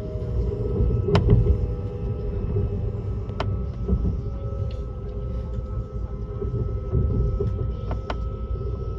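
Cabin noise inside a running ICE high-speed train: a steady low rumble with a steady hum over it, and three sharp clicks along the way.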